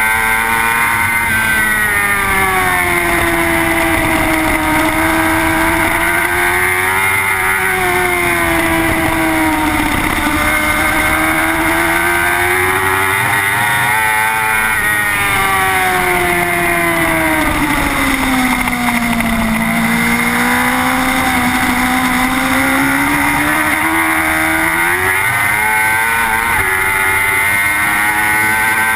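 Suzuki GSX-R superbike's inline-four engine heard on board at racing speed, its revs rising and falling through the corners, with the deepest drop in revs about two-thirds of the way through.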